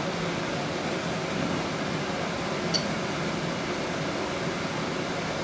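Steady hiss of steam building in the 1921 Empire B30 toy steam engine's boiler as it heats on its electric element, with one faint click a little before the middle.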